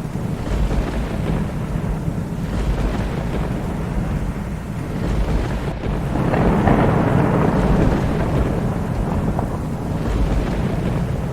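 Thunder rumbling over steady rain, the rumble swelling into a louder roll about six seconds in and then easing back.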